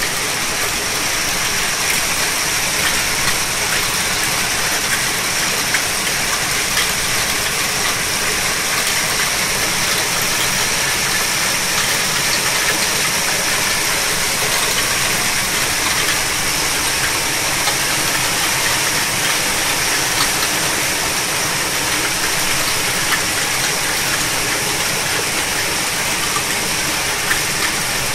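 Heavy rain pouring down steadily in a thunderstorm cloudburst, with scattered sharp ticks of drops or hail striking close by.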